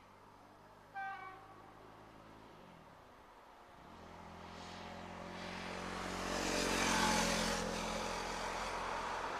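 Diesel regional train approaching and passing: a low engine drone with rising wheel and rail noise builds from about four seconds in and peaks around seven seconds, then carries on steadily. A short toot about a second in.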